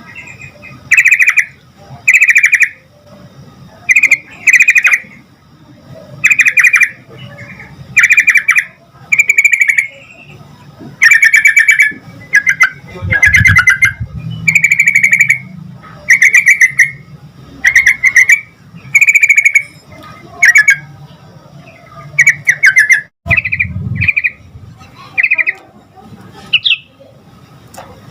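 Sooty-headed bulbul (trucukan) calling over and over: short, loud, bubbly phrases about once a second.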